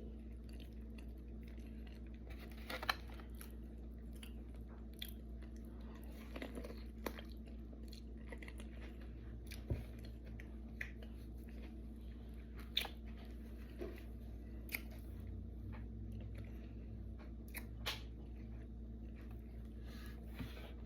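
A person eating close to the microphone: scattered crisp bites and crunches every second or two, with chewing in between, over a steady low hum.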